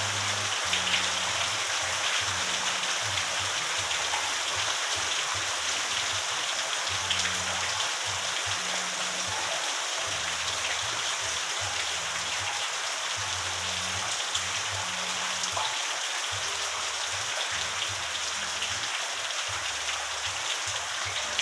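Steady rain falling: an even hiss of rain with the small ticks of single drops striking close by.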